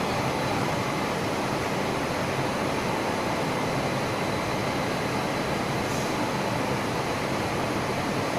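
Steady rushing roar of a glass tempering furnace's air blowers, an even wash of noise with a faint high hum running through it.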